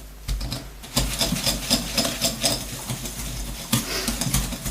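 Butter and sugar being beaten in a mixing bowl, in quick rhythmic strokes of about four a second that knock and scrape against the bowl: creaming the mixture until smooth.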